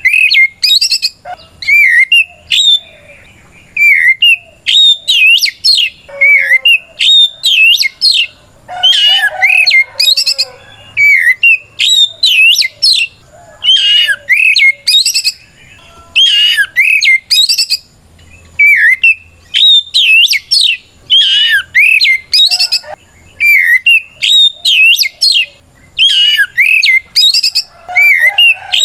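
Oriental magpie-robin (kacer) singing a loud challenge song: short phrases of quick rising and falling whistles, about one a second with brief gaps, the full-voiced 'ngeplong' song of a male calling out a rival.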